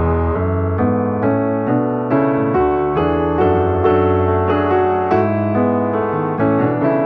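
Background piano music: a steady flow of notes over a sustained bass.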